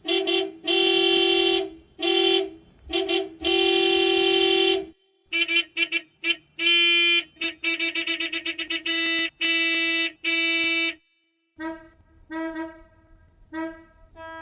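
Classic car horn honking in short and long blasts, two steady tones sounding together. From about five seconds in the honks come quickly one after another, and they give way to fainter, shorter toots near the end.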